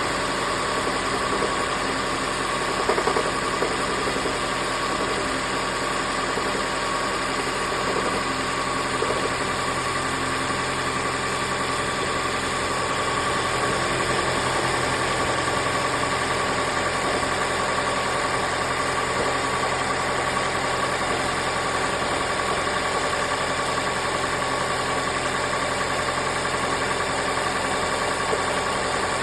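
Engine idling steadily with a fast, even knocking, a knock whose normality the owner questions.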